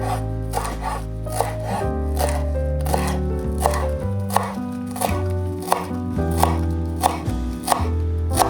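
A knife chopping on a cutting board, short sharp strokes about two to three a second, over background music with sustained bass notes.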